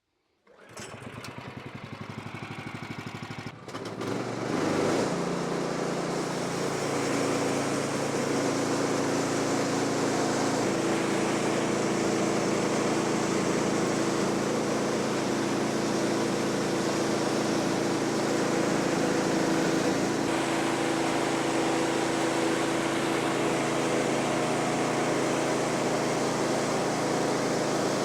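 Small gasoline engine of a portable bandsaw sawmill running. It comes up to speed about four seconds in and then runs steadily at an even pitch.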